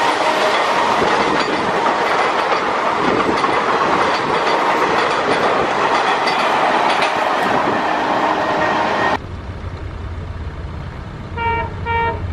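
Passenger coaches passing at speed close by: a loud steady rush with wheels clattering over the rail joints. About nine seconds in it cuts to a distant ALCo diesel locomotive's engine running with a low hum, and near the end the locomotive gives two short horn toots.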